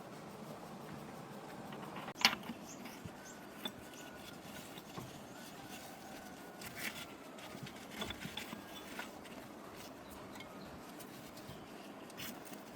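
A few sharp, scattered clicks and knocks over faint background noise, the loudest about two seconds in.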